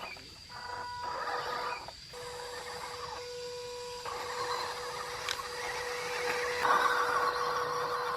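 Electric drive motor and gearbox of a small RC pickup truck whining steadily as it drives, with rougher, noisier stretches that change every couple of seconds.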